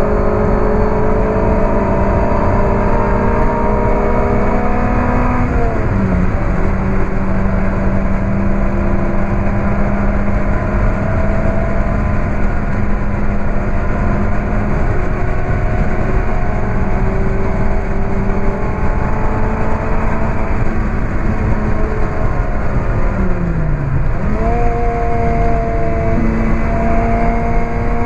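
Onboard sound of a Lotus Elise 111R's Toyota 2ZZ-GE inline-four, breathing through a Larini sport exhaust, pulling under load with heavy road and wind noise. The revs climb, then drop with an upshift about five seconds in, and hold fairly steady for a long stretch. Near the end the revs fall off and jump back up with a downshift.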